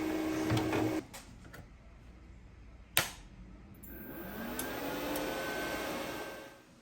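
A workshop power tool's motor running with a steady hum, switched off about a second in; a single sharp click follows, then a motor runs up with rising pitch and dies away near the end.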